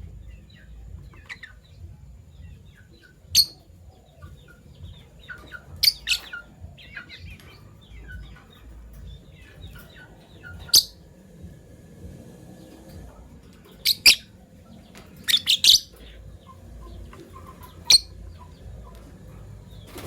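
Fischer's lovebirds calling: sharp, shrill chirps every few seconds, some in quick pairs or clusters, over soft twittering chatter.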